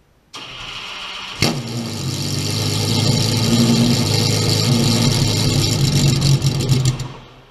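Car engine starting: about a second of starter whirr, then the engine catches with a sharp crack and runs, growing steadily louder, with a quick run of pulses near the end before it fades out.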